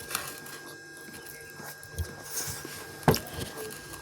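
Close-miked eating sounds: soft chewing and mouth noises, with a single sharp knock about three seconds in.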